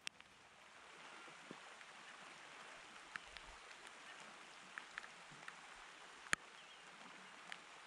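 Light rain: a faint, steady hiss with scattered drops ticking, one sharper tick a little past six seconds in.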